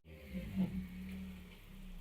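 A car engine idling, a faint steady hum.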